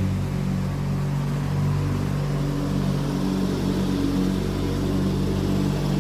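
Lawn tractor engine running steadily at a constant speed.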